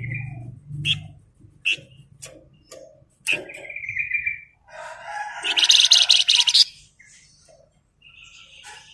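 Songbird (flamboyan) calls: short chirps and a couple of held whistled notes. About five seconds in comes a louder, harsher call lasting under two seconds, which may be a rooster crowing.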